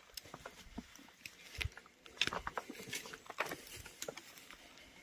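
Footsteps on the forest floor: irregular crackling and snapping of dry twigs and litter underfoot, with a dull low thump about a second and a half in.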